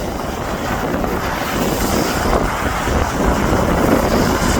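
Wind buffeting the microphone over a steady low rumble that grows slightly louder toward the end.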